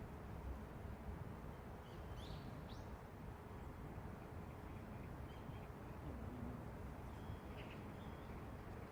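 Faint, steady low rumble of city traffic. A few short bird chirps come through about two seconds in and again near the end.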